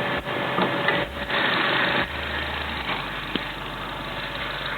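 Car engine running at idle, steady, a little louder in the first two seconds.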